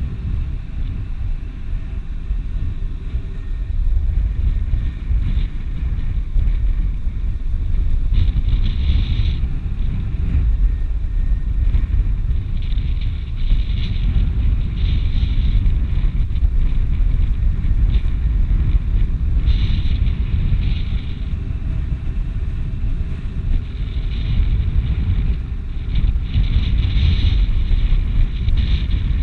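Wind buffeting the microphone: a loud, steady low rumble, with brief higher rushes of air every few seconds.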